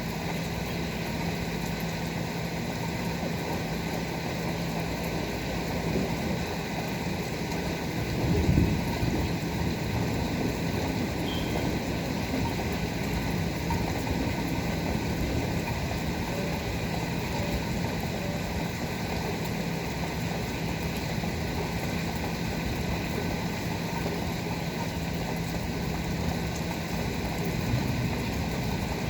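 Steady heavy rain falling, with a constant low hum underneath and a brief louder rumble about eight seconds in.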